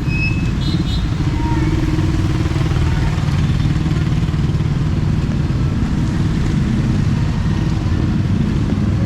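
A motor vehicle's engine running close by: a steady low rumble with street traffic.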